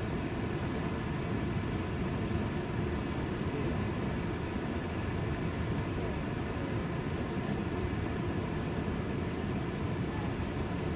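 A river rushing over boulders: a steady, unbroken roar of water.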